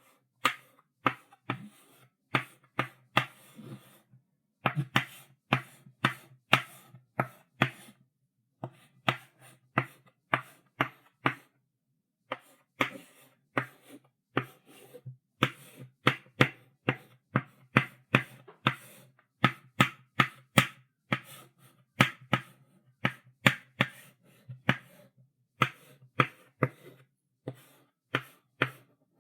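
Chalk writing on a blackboard: a steady run of short, sharp taps and strokes, about two to three a second, with a few brief pauses.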